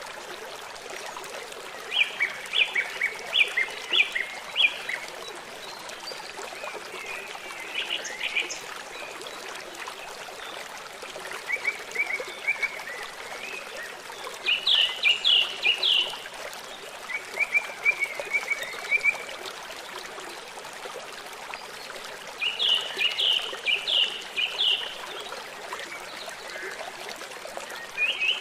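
Songbirds singing in the forest, several short phrases of quick repeated notes, over the steady rush of a running stream or waterfall.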